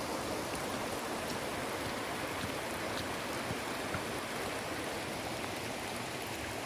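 Steady rush of a river flowing close by.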